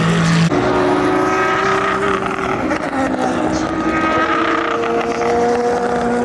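Several endurance race cars' engines running at sustained high revs on the circuit, their overlapping notes each held almost level in pitch, with an abrupt change about half a second in as one note gives way to others.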